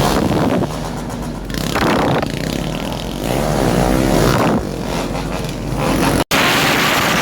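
Motorcycle engine revving, its pitch rising and falling several times, with a brief sudden dropout just over six seconds in.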